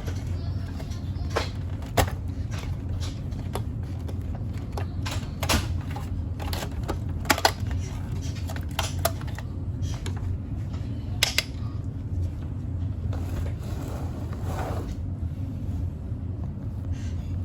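Irregular sharp clicks and light knocks, as of tools and machine parts being handled during a coffee-machine repair, over a steady low hum.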